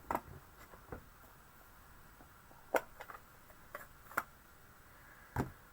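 A few light, scattered clicks and taps from ink and brush being handled while more ink is picked up, with quiet room tone between them.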